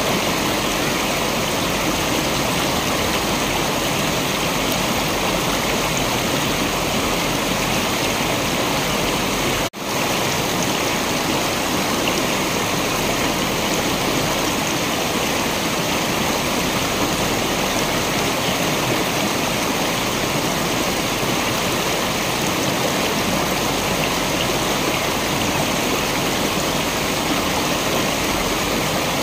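Waterfall, a steady, full rush of falling water. About a third of the way in, the sound cuts out for a split second and comes straight back.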